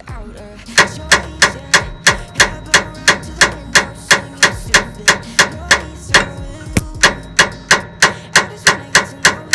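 Hammer striking metal in a steady run of sharp blows, about three a second, each with a short ring, starting about a second in. It is hammering at a Suzuki Jimny SJ30's steering gearbox to free a stubborn part during an oil seal change.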